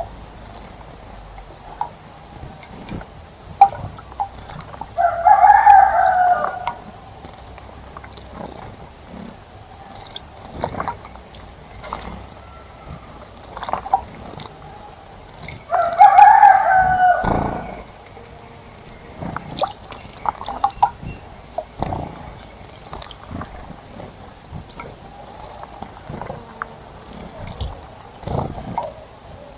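A bird calling loudly twice, each call about a second and a half long and some ten seconds apart, over scattered short splashes and clicks of birds at a garden bird bath.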